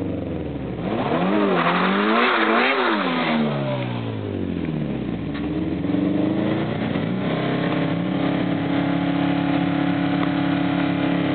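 Turbocharged Honda B16 four-cylinder engine in a Civic, revved in several quick blips about a second in, dropping back down, then held at a steady running note.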